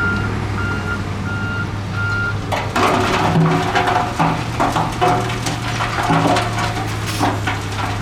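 A heavy diesel vehicle's reversing alarm beeps about every half second as it backs up, over a steady diesel engine hum. The beeping stops about two seconds in, and gravel and rock start rattling and crunching loudly, with irregular knocks, while the engine keeps running.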